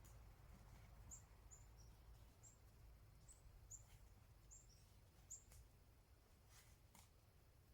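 Near silence, with a small bird giving a quick series of about ten faint, very high, short chirps through the first half, and a few soft clicks.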